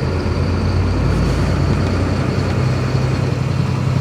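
Vehicle engines idling with a steady low hum, with a faint constant high-pitched tone above it.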